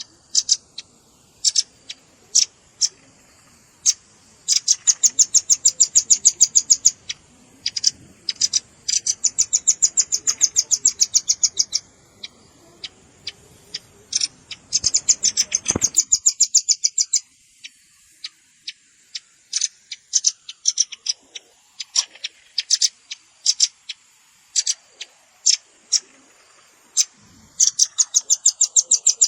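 Velvet-fronted nuthatch calling: sharp, high chips, some single and some in rapid trills of two or three seconds, repeated several times.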